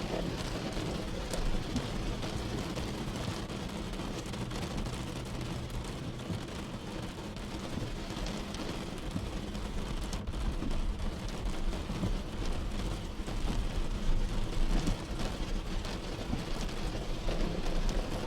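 Steady rain falling, with a low rumble underneath and scattered drop ticks; it grows a little louder in the second half.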